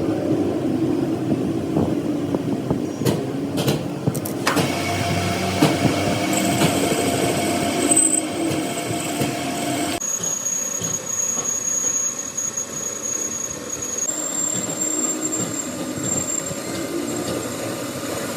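Steady running noise of workshop machinery, with a few sharp clicks about three to four and a half seconds in. The sound changes abruptly about ten and fourteen seconds in.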